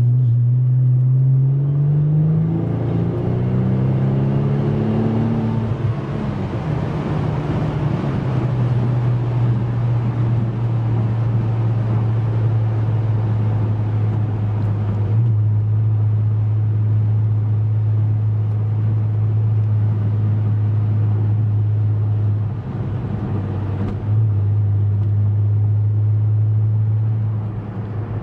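Porsche 996 Turbo's twin-turbo flat-six with a Fabspeed aftermarket exhaust, heard from inside the cabin while driving. The engine note rises for the first five seconds or so, drops with a gear change, then holds a steady low note at cruise. Wind noise over the windshield hisses throughout.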